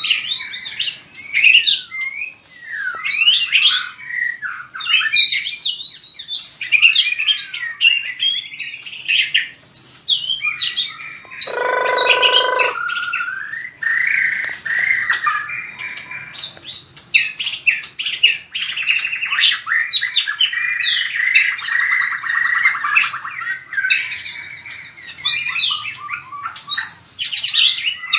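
White-rumped shama singing continuously: fast, varied whistled phrases with rising and falling glides and trills. There is a harsh, lower-pitched note about twelve seconds in and buzzy rattling trills around twenty seconds in.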